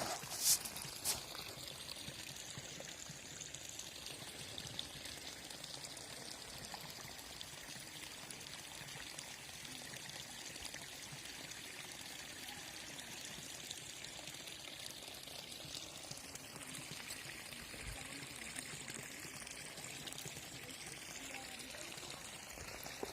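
Water pouring and trickling steadily, with a couple of short knocks about a second in.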